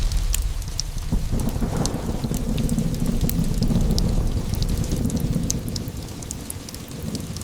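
A thunderclap hits at the start. A deep rumble rolls in about a second later and fades out near the end, over steady rain with scattered drop ticks.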